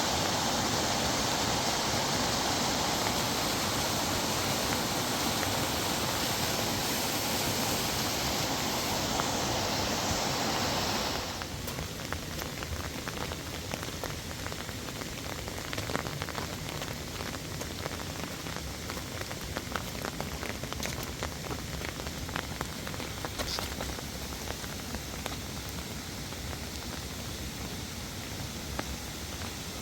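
Rain: a dense, steady downpour hiss that about 11 seconds in cuts abruptly to quieter rain pattering, with scattered ticks of drops hitting nearby surfaces.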